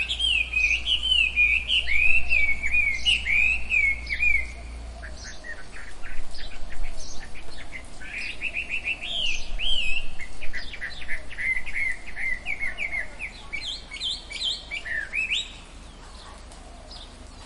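Several birds calling in a forest chorus: fast series of short, arching whistled notes with scattered chirps, which die away about two seconds before the end, leaving a low background hiss.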